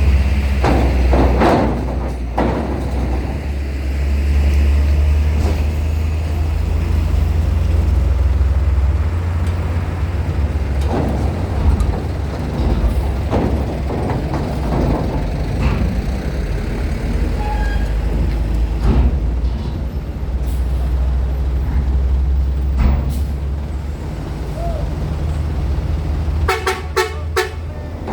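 Heavy trucks and buses running, a steady deep engine rumble with scattered clanks, and a quick run of short horn toots near the end.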